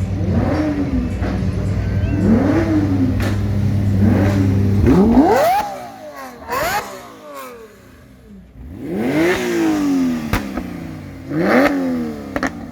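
Car engine revved repeatedly in short blips, each rising sharply in pitch and falling back. A steady low drone runs under the first five seconds or so and then stops, and a few more blips follow with gaps between them.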